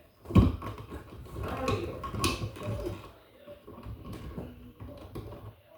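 Handling noise from work at an electrical wall box as wires are pushed back in: a sharp knock about half a second in, then scattered clicks, taps and rustling of wires and hardware.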